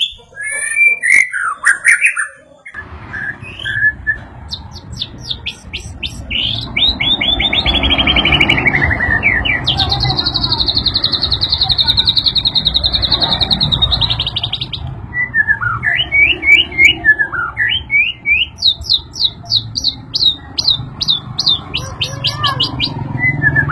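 White-rumped shama singing a varied, loud song of whistled phrases: quick series of repeated notes, a long fast trill lasting several seconds, and rising and falling whistles. A steady low rumble runs underneath from about three seconds in.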